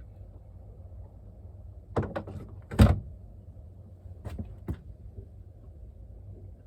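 A few sharp knocks and clatters of hard gear being moved about on a small boat, with the loudest knock about three seconds in and two lighter ones a couple of seconds later, over a steady low rumble.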